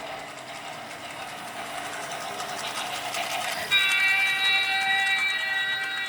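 A train running with a steady, building rattle and rumble, then its horn comes on suddenly a little past halfway and sounds one long held blast to the end.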